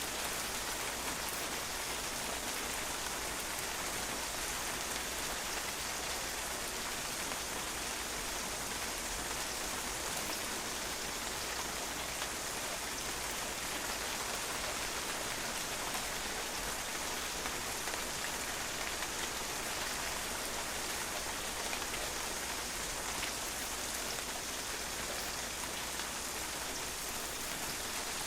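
Steady rain falling on a patio, a dense even hiss of many small drops hitting a hard surface.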